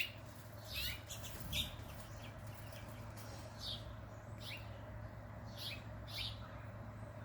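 House finches giving short, high chirps, each sliding down in pitch, about a dozen scattered irregularly, faint over a low steady hum.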